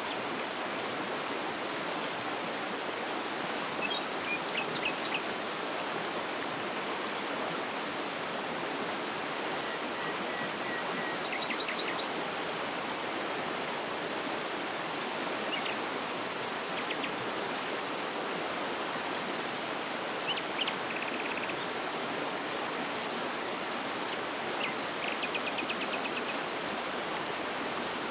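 A waterfall with a steady rush of falling water, and small birds chirping and trilling in short bursts every few seconds over it.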